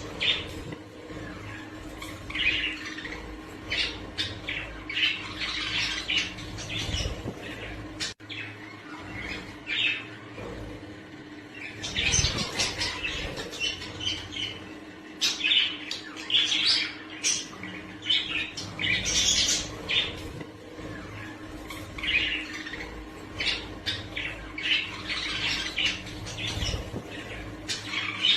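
Budgerigar chattering and squawking in short, repeated bursts of high calls.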